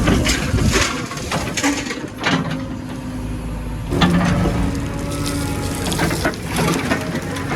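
Heavy machinery engine running steadily under a series of irregular clanks and crunching knocks, the sound of metal and material being worked.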